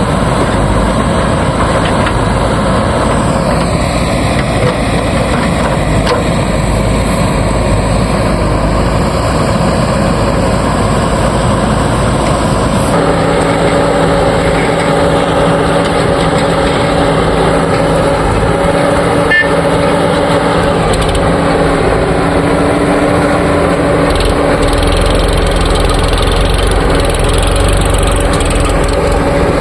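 Diesel engine of a JCB 3DX backhoe loader running steadily while it loads mud. About halfway through, the engine note steps up and grows stronger, as the revs rise.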